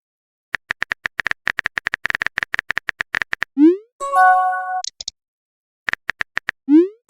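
Texting-app sound effects: a quick run of phone-keyboard tap clicks for about three seconds. A little past halfway a rising bloop sounds, followed by a short chime of several tones. A few more key taps come after it, and another rising bloop near the end.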